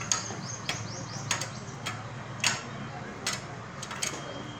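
Irregular sharp metallic clicks and clinks of hand tools on engine parts, about a dozen scattered ticks, over a low steady hum.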